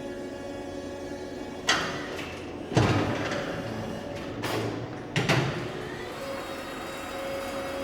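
A steady machine hum with four sudden loud bangs or clanks that ring briefly, the loudest about three seconds in.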